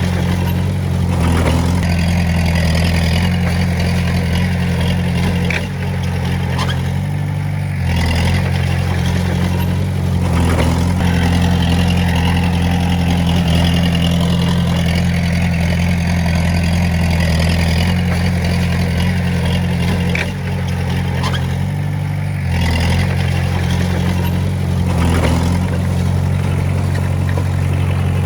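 Komatsu D20A bulldozer's diesel engine running steadily while working, its note dipping and picking up briefly a few times.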